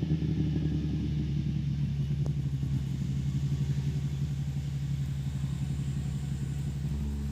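Rally car engine running at steady revs, a low, even drone with a fast flutter.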